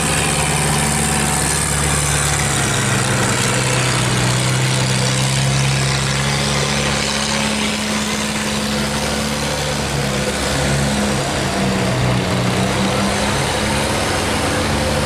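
Boat engines running steadily, their hum wavering in pitch after about ten seconds, over a steady hiss.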